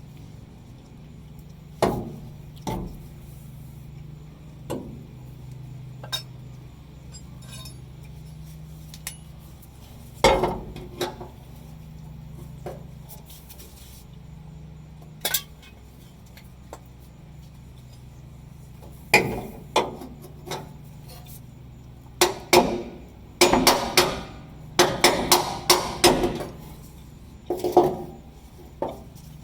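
Hammer tapping on metal, with light metallic clinks: scattered single taps, then a quicker run of taps over the last several seconds. A faint steady low hum sits underneath.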